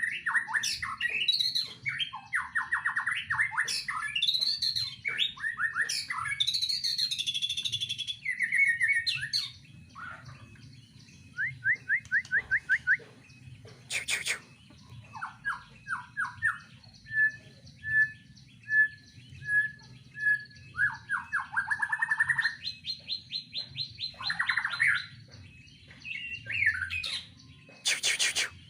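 White-rumped shama singing a long, varied song full of mimicked phrases: whistles, rapid trills and runs of short notes, with brief pauses between phrases. Two sharp clicks cut in about halfway through and again near the end.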